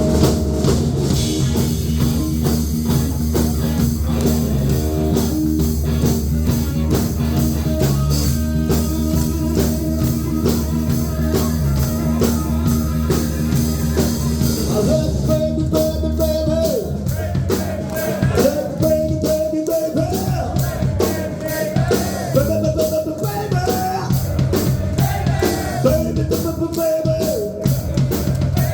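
Rock band playing live: guitar, bass and drum kit in a steady groove, with a singer's voice coming in about halfway.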